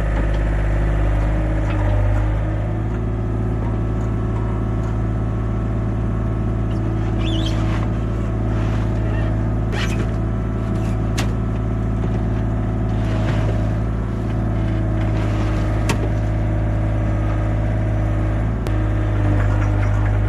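Yanmar compact excavator's diesel engine running steadily, with a few sharp metallic clanks partway through.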